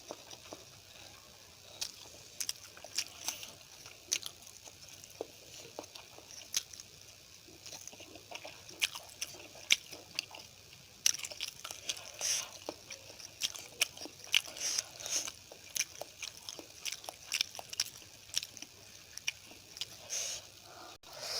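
Close-miked chewing and mouth sounds of a person eating a meal of rice, poori, potato curry and sambar: many irregular wet clicks and smacks, busier in the second half.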